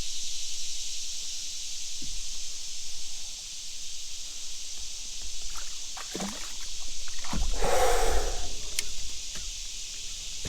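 A steady, high-pitched insect chorus pulsing without pause, the summer drone of the riverbank. A short rough noise rises over it about three-quarters of the way through.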